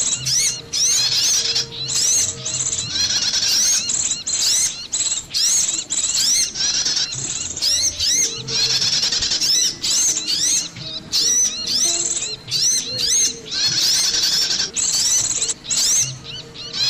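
Bird-lure recording of small songbirds calling: a dense, continuous stream of high-pitched chirps and quick rising whistles, several birds overlapping with barely a pause.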